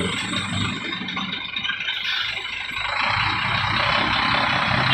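Heavy Scania diesel truck engine running under load as the truck creeps forward on light throttle, with a steady hiss coming in about three seconds in.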